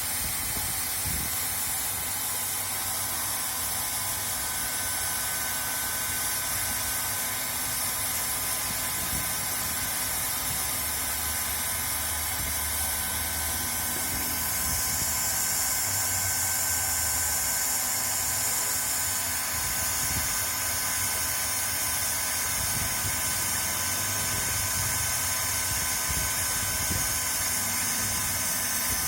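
LST1600A hand-held hot-air plastic welder running: a steady hiss of hot air from the nozzle over the blower's thin whine, the hiss growing brighter about halfway through.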